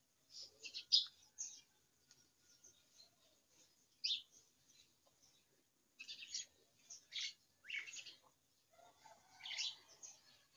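Small birds chirping: short, high chirps come in clusters, with a quieter gap in the first half.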